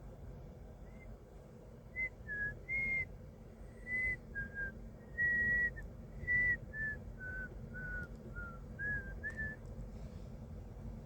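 A man whistling by mouth: a string of about a dozen short, high notes that step up and down and then drift lower, starting about two seconds in, over a low steady rumble.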